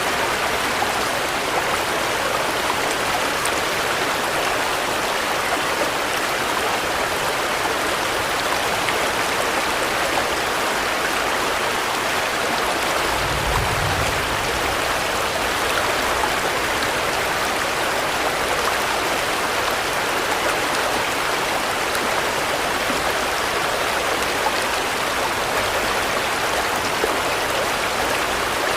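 Steady rain falling, an even hiss with no let-up. A brief low rumble comes about halfway through.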